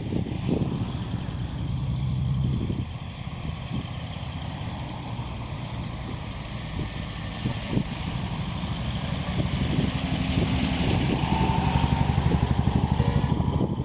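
Strong wind rushing and buffeting the microphone over the low, steady running of large truck engines. The pitch of the engine hum shifts after about three seconds.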